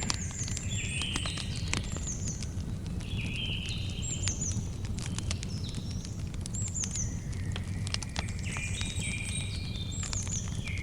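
Campfire crackling: irregular sharp pops and snaps over a steady low rumble. Short high chirps repeat about once a second, some sliding down in pitch.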